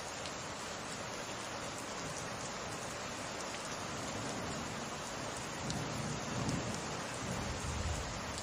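Steady summer rain falling, an even hiss. About six seconds in, a low rumble of thunder swells under the rain and fades near the end.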